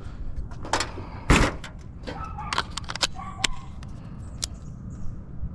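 A series of sharp clicks and knocks, the loudest about a second and a half in, from parts and tools being handled during work on a car's electrical system.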